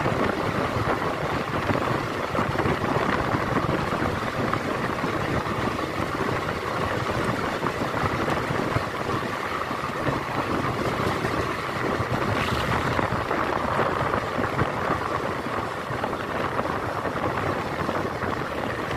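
Steady running noise of a passenger train coach on the move, heard through an open window or door: wheels rolling on the rails with rushing air.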